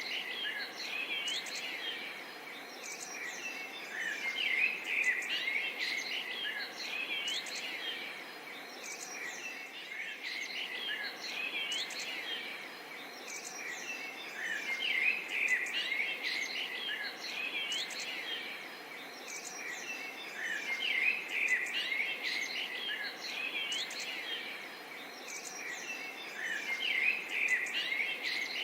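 A dense chorus of chirping and trilling bird calls, with some insect chirping, over a steady background hiss, swelling and easing every few seconds.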